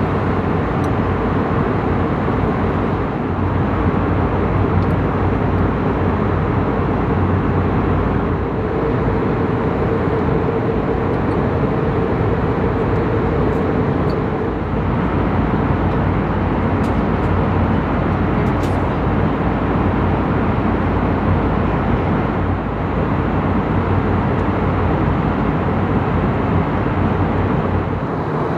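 Steady rushing cabin noise of an Airbus A321neo in flight, heard from a window seat, with a low hum and a fainter steady tone held underneath.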